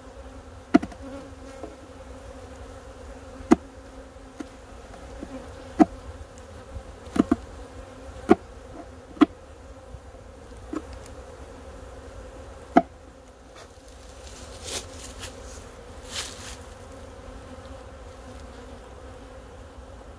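Honey bees buzzing in a steady hum around the hive. Sharp knocks sound at uneven intervals, about eight in the first two-thirds, and a couple of short scraping hisses follow.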